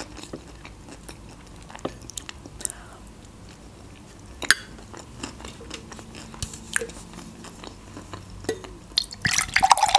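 Close-miked mouth sounds of a person chewing and biting food: scattered soft wet clicks and smacks. Near the end a louder, denser rush of noise begins.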